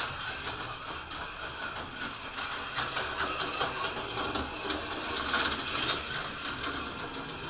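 Small electric motor of a model vehicle running along layout track: a steady whir with rapid small clicks, fading away near the end.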